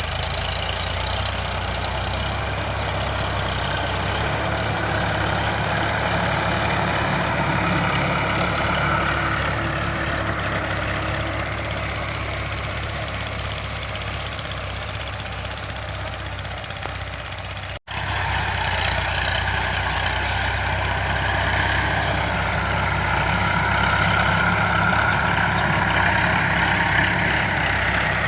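Sonalika DI 745 tractor's diesel engine running steadily, its pitch drifting up and down a little. The sound cuts out abruptly for a moment about 18 seconds in, then resumes.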